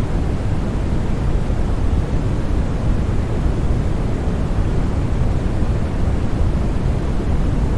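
Continuous sleep-aid noise for soothing a baby, an even, unchanging rush weighted toward the low end rather than flat white hiss.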